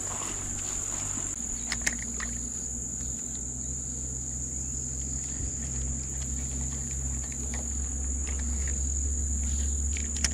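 Insects making a steady high-pitched drone, with a couple of faint clicks about two seconds in and near the end.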